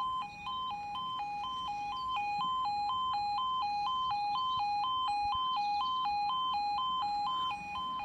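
UK level crossing audible warning sounding: a two-tone electronic alarm switching steadily between a lower and a higher tone about twice a second, warning that a train is due.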